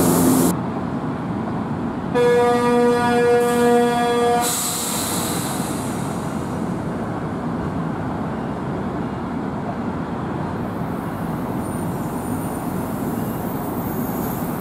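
A train horn sounds once, about two seconds in, for a little over two seconds, over the steady rolling rumble of NJ Transit Comet V coaches moving along the platform.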